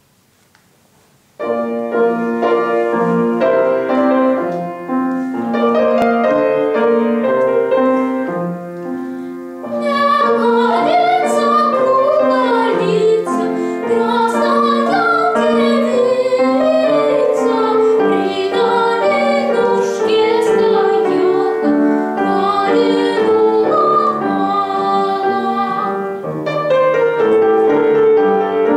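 A young female voice singing an arrangement of a Russian folk song with instrumental accompaniment. The accompaniment starts alone about a second and a half in, the voice enters about ten seconds in, and near the end the accompaniment plays on by itself.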